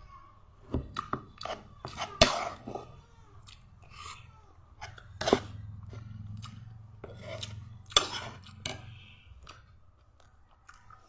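A person chewing bitter gourd (ampalaya) close to the microphone: irregular wet crunches and clicks of the mouth, with louder bites about two, five and eight seconds in.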